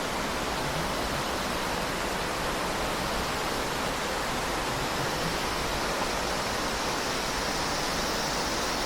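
Steady rush of flowing water from a stream or small cascade, an even hiss that holds at one level throughout.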